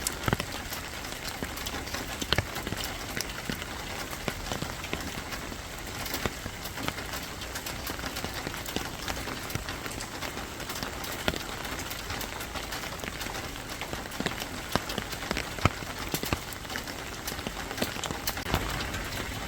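Steady rain falling on a surface: a constant hiss with frequent, irregular sharp taps of drops.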